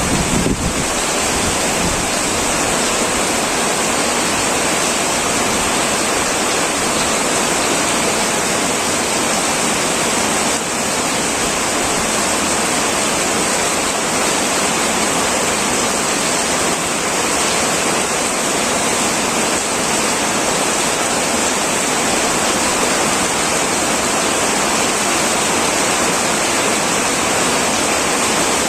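Heavy rain pouring steadily on a metal roof, a dense, unbroken hiss. A low rumble fades out in the first second.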